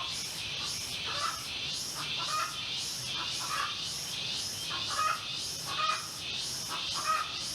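Birds calling in short repeated notes, over a steady high-pitched chirring that pulses about twice a second.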